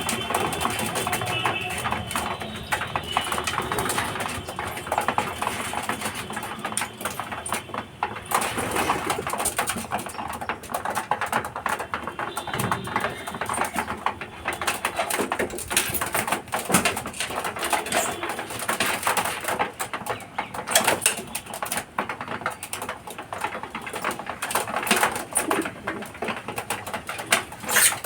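Racing pigeons cooing, with frequent small clicks and taps throughout.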